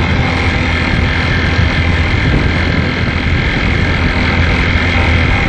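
Small motorcycle engine running steadily at cruising speed, with wind rushing over the microphone.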